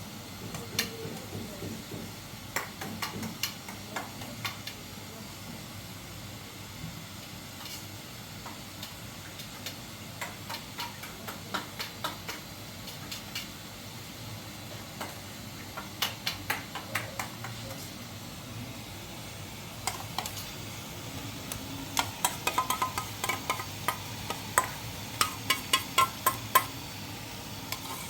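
Irregular light clicks and clinks over a steady hiss. Near the end they come thicker and faster, some of them ringing briefly.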